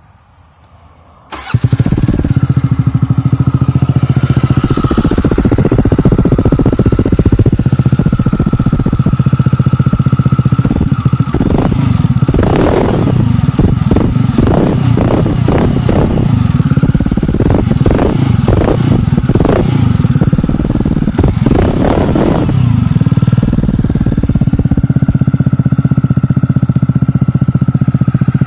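Supercharged motorcycle engine starting about a second in and idling with a steady high whine over it, then revved in a string of quick blips through the middle before settling back to idle.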